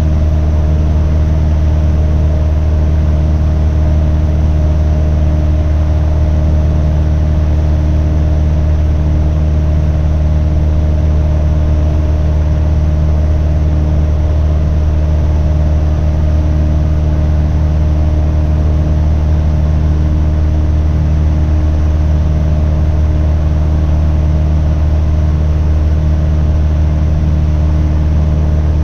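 Cabin drone of a 1973 Cessna Cardinal RG's engine and propeller running steadily in flight, a loud, even low hum with no change in pitch.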